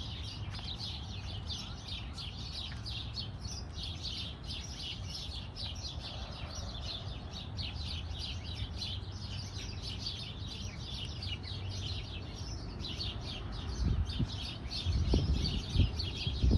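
Many small birds chirping in a dense, rapid chorus, over a low steady rumble. A few low thumps come near the end.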